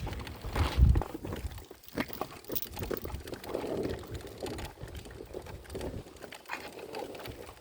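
A dove cooing, soft low calls in the middle and later part, with a low rumbling thump in the first second.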